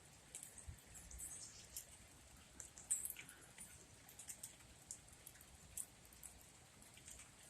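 Faint, scattered high-pitched chips and ticks from small birds calling around the feeder, over a near-silent background.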